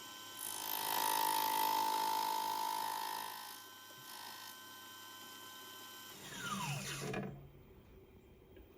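Small machine-tool motor running with its cutter cutting a gear tooth in brass stock, louder for about three seconds as the cut is taken. About six seconds in the motor is switched off and winds down, its whine falling in pitch to a stop.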